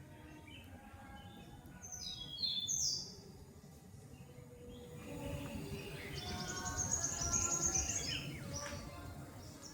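Birds chirping and calling. A loud cluster of high calls comes about two to three seconds in, and a run of rapid chirps follows in the second half, over a low steady rumble.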